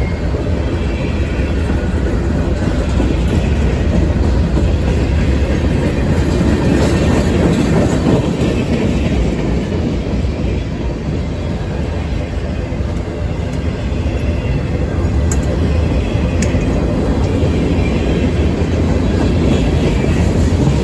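Train rolling past, a steady loud rumble of wheels on the rails with a couple of brief sharp clicks near the end.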